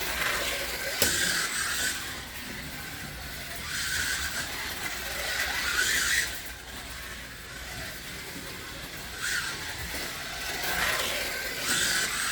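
1/24-scale slot cars running laps: the small electric motor whine and tyre noise swell and fade each time a car passes, about every five seconds, with a sharp click about a second in.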